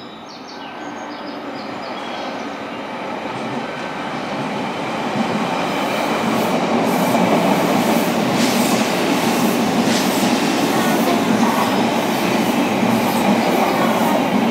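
Odakyu 60000 Series MSE Romance-car electric limited express approaching and running through the station without stopping. The rumble grows steadily louder over the first half, then stays loud as the cars pass, with sharp wheel clicks over the rail joints.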